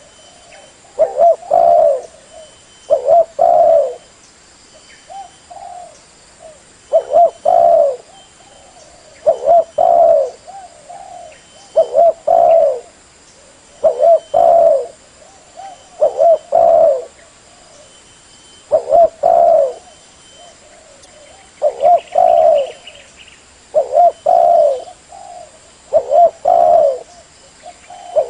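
Spotted dove (tekukur) cooing: short phrases of two or three low coos, repeated about every two seconds, about a dozen phrases in all.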